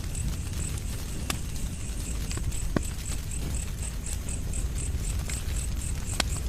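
Wood fire burning with a steady low rumble and scattered sharp crackling pops, three of them louder than the rest. A high chirp repeats evenly about three times a second throughout, in the manner of a cricket.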